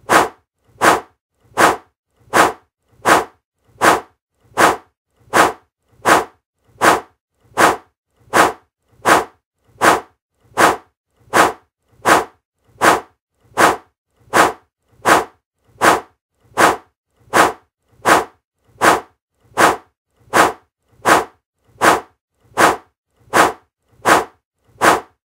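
A short mouth click made over and over at a perfectly even pace, about four every three seconds, each one sharp and identical.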